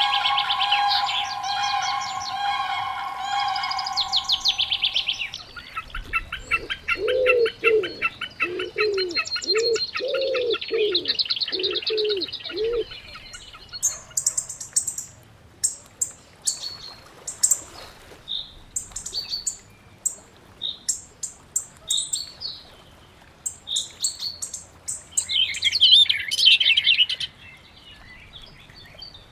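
Mixed birdsong. Rapid trills, then a run of low, evenly paced hooting notes, then scattered short high chirps and a brief flurry of calls near the end. Steady held tones at the start.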